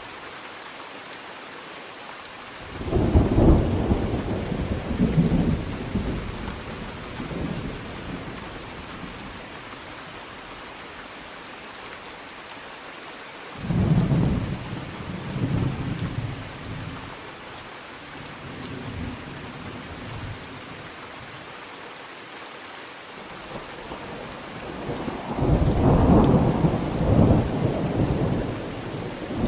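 Thunderstorm with steady heavy rain hissing throughout and three rolls of thunder: one about three seconds in, one near the middle and a longer one near the end, each rumbling for several seconds before fading.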